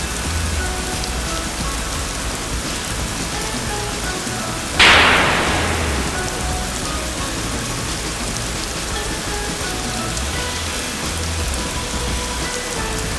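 Heavy rain pouring steadily onto wet pavement. A sudden loud crash comes about five seconds in and fades over about a second.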